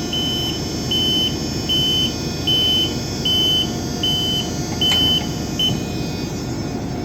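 A high electronic beeper sounding in a steady rhythm, about one beep every three-quarters of a second, which cuts off about five and a half seconds in. Under it runs the steady din of a ship's engine room machinery.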